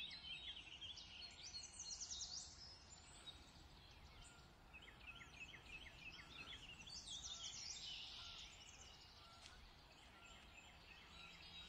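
Faint bird chirping: runs of quick, repeated high notes over low outdoor background noise.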